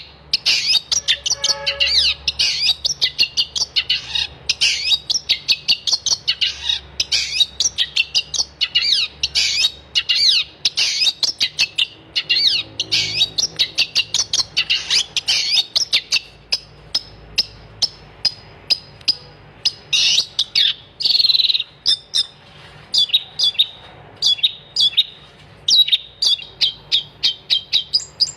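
Long-tailed shrike (cendet) singing vigorously: a fast, unbroken stream of high chirps and warbled notes. About halfway through it changes to sharper, more separated notes.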